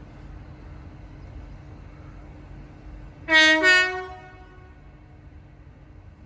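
Great Western Railway train's two-tone horn sounding two short notes about three seconds in, the second higher than the first, the departure signal of a train leaving the station. A steady low rumble runs beneath.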